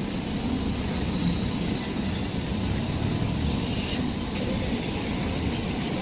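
Running train: a steady low rumble with hiss, growing briefly brighter a little past halfway.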